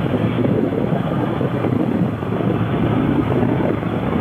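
Motorcycle on the move, its engine and road noise mixed with wind rushing over the microphone.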